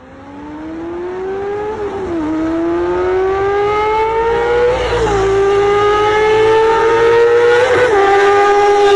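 Yamaha R25's 250 cc parallel-twin engine on a standard bike, accelerating hard through the gears. The pitch climbs steadily and drops sharply at three upshifts, about two, five and eight seconds in, growing louder as it goes.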